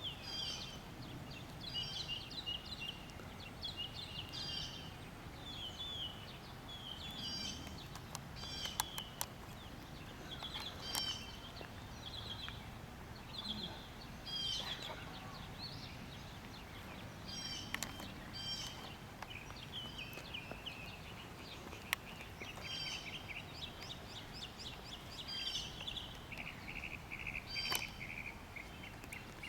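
Songbirds chirping and singing in short repeated phrases over a faint, steady low background rumble, with a couple of sharp clicks partway through.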